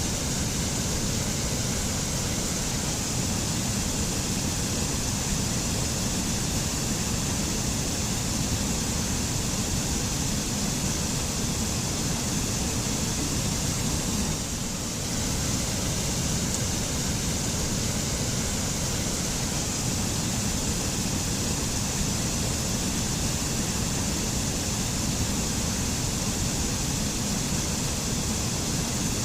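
Mountain waterfall rushing steadily, falling water making an even wash of noise that dips slightly for a moment about halfway through.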